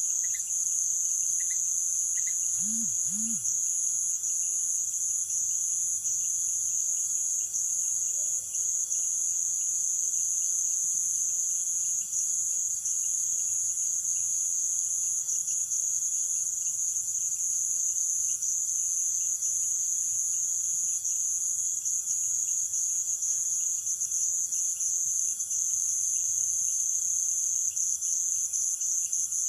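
Night insect chorus of crickets and other insects in Amazon rainforest: a dense, steady, high-pitched trilling. There are a few short chirps in the first two seconds and two short low calls about three seconds in.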